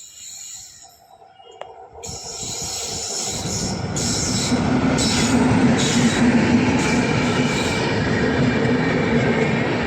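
A superfast express train hauled by a WAP-7 electric locomotive approaches and passes at high speed. The rush of wheels on rails builds from about two seconds in, then holds at a steady, loud rumble.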